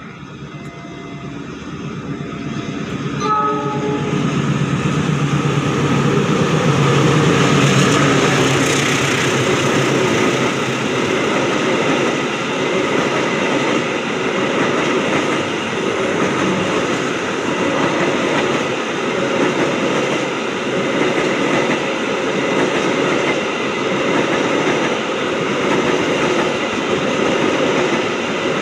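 Diesel-hauled passenger train passing close by. The locomotive approaches with a short horn blast about three seconds in and is loudest around eight seconds in. Its carriages then roll steadily past with a clickety-clack of wheels over the rail joints.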